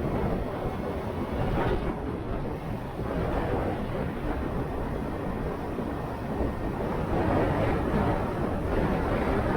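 Wind rushing over the microphone and road noise from a motorcycle underway, a steady rumbling rush that swells a little about seven seconds in.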